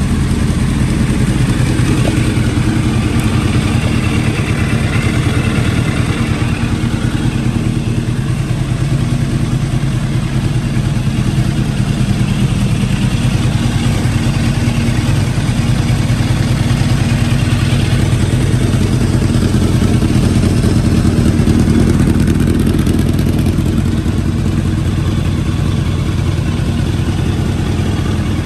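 1989 Kawasaki ZX-10's inline-four engine running steadily through a Yoshimura aftermarket exhaust. It sounds slightly fuller about twenty seconds in.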